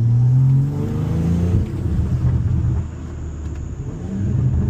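Car engine accelerating, its pitch rising over the first second and a half, then running on with a deep rumble that eases off and swells again near the end.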